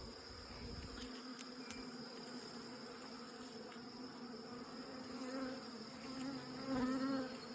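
Honeybees buzzing steadily around an open hive, a low even hum that swells slightly near the end.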